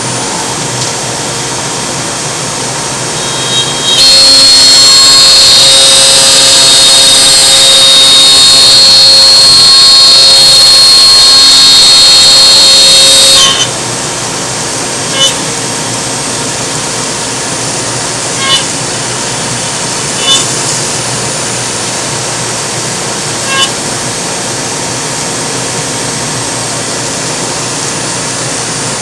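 CNC router running with a steady machine noise. About four seconds in, a loud high-pitched cutting sound starts, lasts about nine seconds and cuts off suddenly. The steady running noise then carries on with a few short sharp ticks.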